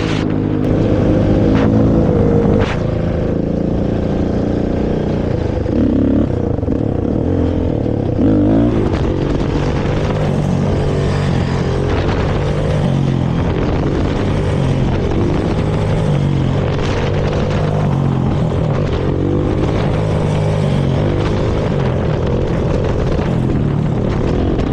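Honda TRX450R quad's single-cylinder four-stroke engine through its stock exhaust, revving up and down in the first several seconds, then running at a steadier speed while riding.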